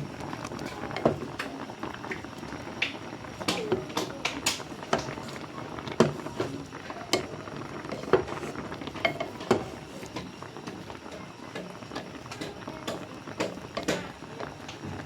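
A pot of food boiling steadily, with irregular sharp clinks and taps of utensils against the pot.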